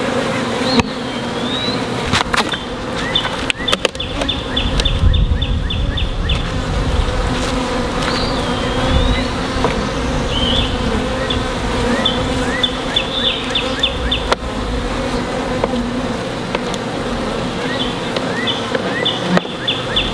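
A honeybee colony buzzing in a steady low hum around an opened hive, with scattered clicks and knocks.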